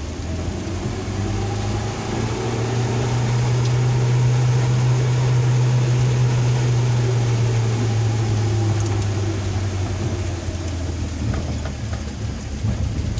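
Suzuki Carry Futura pickup's engine running under load, heard from inside the cab. Its steady drone grows louder about two seconds in and eases off again near the end. An even hiss of rain and road noise lies underneath.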